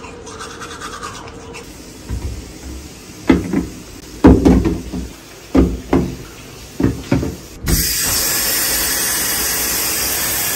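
A string of knocks and clunks as plastic toiletry bottles are handled and set down on a shower ledge, then about eight seconds in the shower is turned on and water sprays with a steady hiss.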